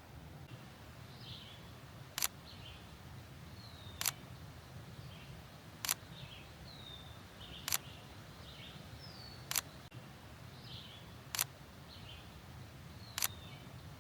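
Camera shutter firing seven single shots, evenly spaced about two seconds apart. A bird gives short falling whistles between the shots.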